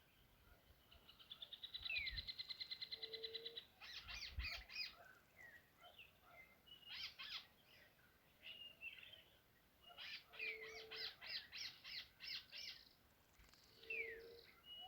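Several wild birds calling together: a low, single-pitched hoot repeated every few seconds, a fast rattling trill that builds and runs for about two seconds near the start, and runs of quick sharp chirps.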